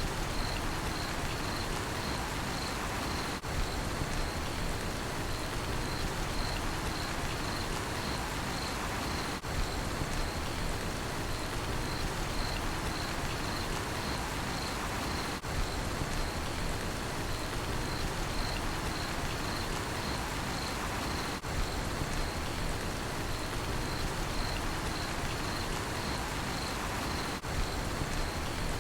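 Steady rain falling, with a cricket chirping in an even, regular rhythm over it, about one to two chirps a second.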